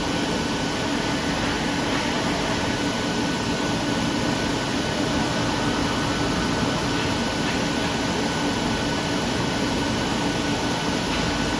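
Steady mechanical hum and hiss of a DECKEL MAHO DMU 65 monoBLOCK 5-axis machining centre running, with a faint high whine held at an even pitch.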